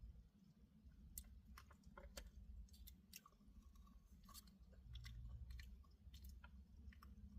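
Faint chewing of a mouthful of burger: scattered small wet clicks and crunches of the mouth, over a low steady hum.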